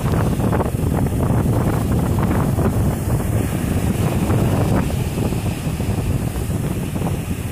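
Strong wind rushing over the microphone on a boat in rough sea, with waves washing against it.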